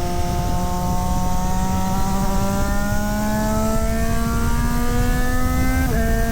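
Triumph Street Triple 765 RS inline three-cylinder engine under load on track, its revs climbing steadily through one gear, then dropping abruptly about six seconds in as it shifts up.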